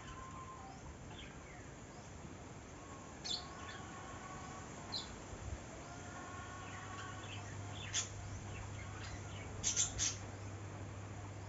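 Several wild birds calling and chirping, with a few sharp short chirps standing out about three, five, eight and ten seconds in, over steady outdoor ambience. A low steady hum joins about six seconds in.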